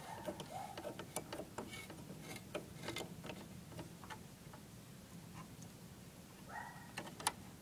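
Light, irregular clicking and ticking from a Sears Coldspot window air conditioner's thermostat as its evaporator sensor wire is moved about, over a faint steady low hum. The clicks come from a touchy thermostat that the owner suspects is faulty.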